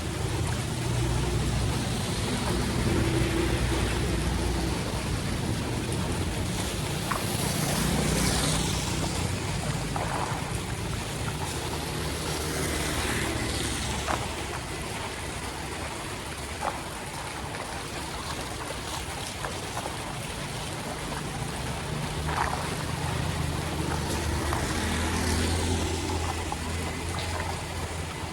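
Steady rain and running floodwater on a street, with vehicles passing several times, their engines and tyres through the water swelling and fading.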